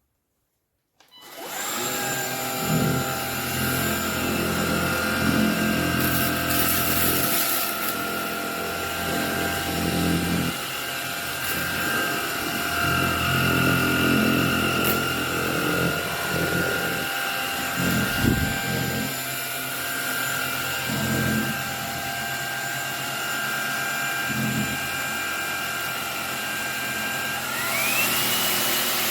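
MONSGA cordless stick vacuum cleaner with a brushless motor, starting up about a second in and then running with a steady high whine over uneven lower rumbling. Near the end the motor whine rises in pitch.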